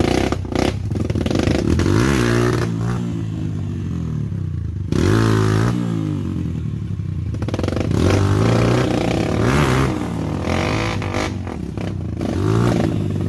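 Suzuki Satria FU's 150 cc single-cylinder four-stroke engine on a trail ride, revving up and dropping back about five times as the throttle is worked. There is clattering and scraping from the bike underneath.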